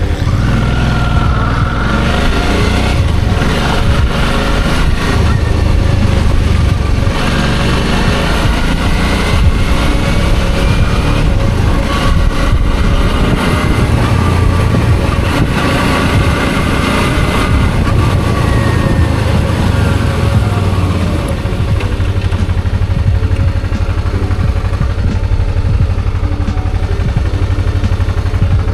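Suzuki V-Strom 650's V-twin engine running under way, its pitch climbing over several seconds and then falling away as the bike speeds up and eases off, over a heavy low rumble.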